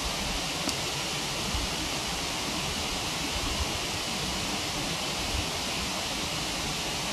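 Steady rushing of a waterfall, with a few faint crackles from a wood campfire.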